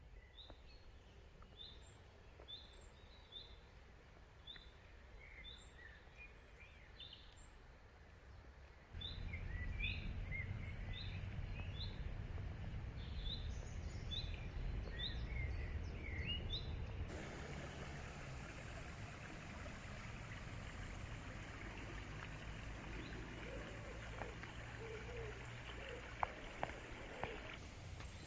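Outdoor nature ambience with a small bird calling over and over in short, high, rising chirps. About 9 seconds in, a low rumble joins abruptly, like wind on the microphone. Past the middle, the chirps stop and a steady rushing hiss takes over, with a few lower calls and clicks near the end.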